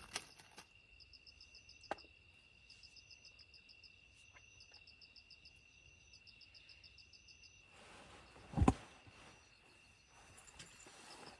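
Faint night insects: a steady high trill with repeated bursts of rapid chirping pulses above it. A single louder thump comes near the end, followed by a soft hiss.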